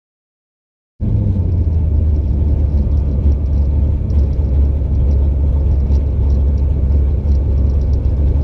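About a second of dead silence from an edit cut, then a steady low rumble of a car running at the drag strip.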